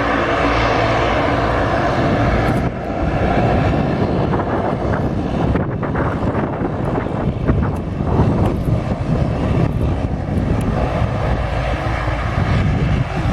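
A fixed-wing airliner's engines running loud and steady, with a brief dip in level about three seconds in.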